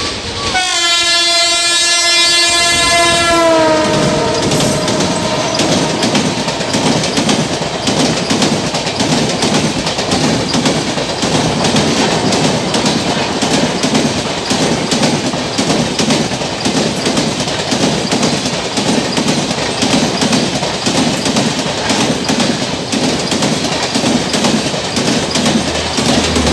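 A WAP-7 electric locomotive sounds its horn for about three seconds, the pitch dropping as it passes. Then the Rajdhani Express coaches rush by at speed, wheels clattering in a steady rhythm over the rail joints.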